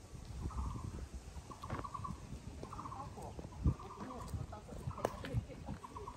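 A bird giving a repeated call: short rattling trills, about one a second. A few low thuds of walking are heard under it.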